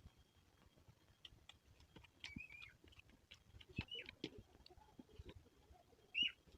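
Faint chewing and biting of spicy pork, with scattered small wet clicks and a few short high chirps, the loudest near the end.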